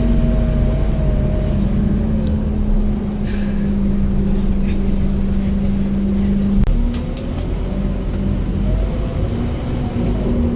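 Scania K230UB city bus's diesel engine running steadily under way, with a low drone whose pitch steps down about a second and a half in and back up near seven seconds in, marked by a brief knock.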